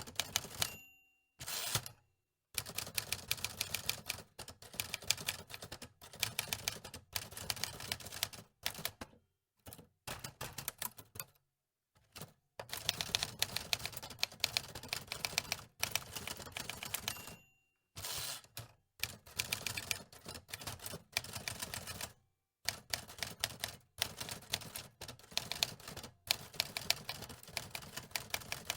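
Typewriter keys clacking in quick bursts of typing, each run lasting a second or a few, with short pauses between them.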